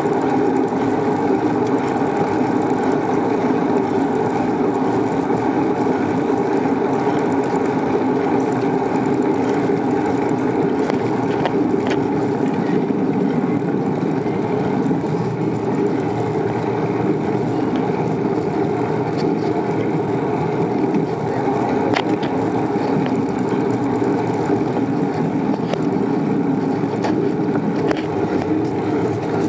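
Steady rushing noise of a bicycle ride, with wind and tyres rolling on pavement, and a few faint clicks.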